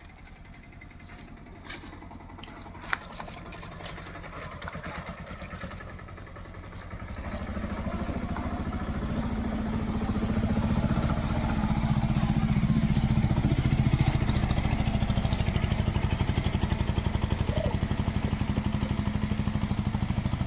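An engine running with a steady low hum, coming in about seven seconds in and growing louder, then holding steady. A few faint clicks come before it.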